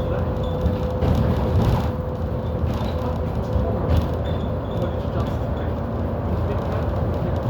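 Inside a moving bus: a steady engine drone and road rumble, with a constant whine running through it and a few brief rattles and bumps.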